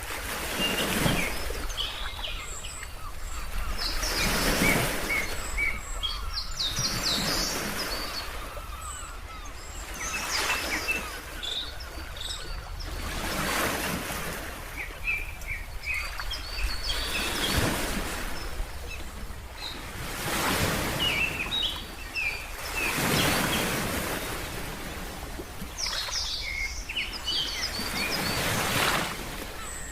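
Ocean waves washing in, a swell about every three seconds, with birds chirping in short high calls between the waves.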